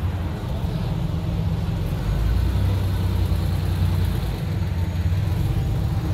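Classic Porsche 911 engine running at low revs as the car rolls slowly past, a steady low rumble that grows a little louder about two seconds in.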